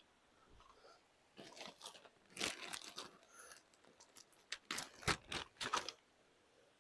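Crinkling and crunching handling noises from coffee gear being readied, in several short, irregular bursts.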